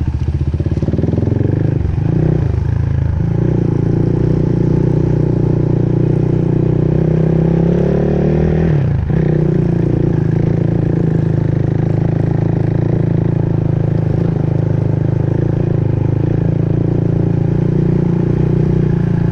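A vehicle engine running steadily, with a short drop and recovery in its pitch about nine seconds in.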